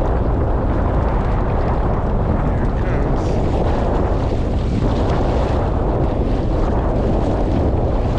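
Strong wind blowing across the microphone: a loud, steady noise with no break.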